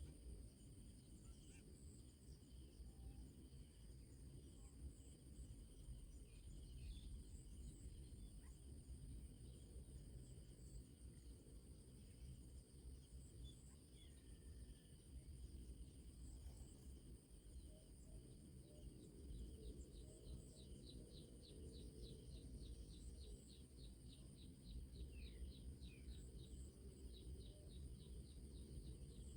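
Faint insect chorus: steady high-pitched cricket-like drones over a low rumble, with a few faint scattered bird chirps. About two-thirds of the way through, a rapid run of ticking notes, a few per second, lasts several seconds.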